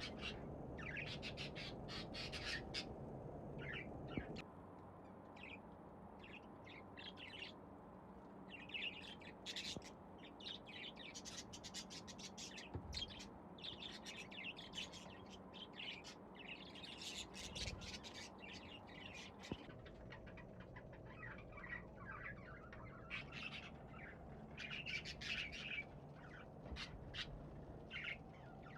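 Pet budgerigars chirping and chattering in quick, irregular bursts, over a steady low background hum.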